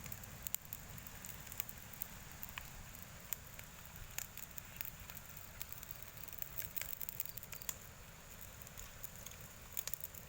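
Bonfire crackling: irregular sharp pops and snaps over a low, steady hiss.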